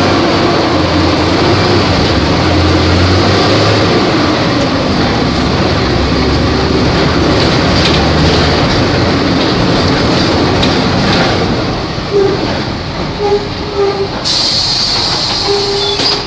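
Volvo B270F bus on the move: its engine and the road and cabin noise run loud and steady, then ease off about twelve seconds in, with knocks and rattles. A high hiss lasts about two seconds near the end.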